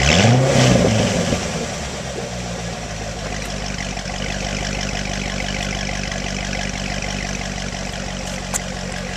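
2009 Corvette Z51's 6.2-litre LS3 V8 through the stock NPP dual-mode exhaust with its valves held open: a quick rev that rises and falls over the first second or so, then a steady idle.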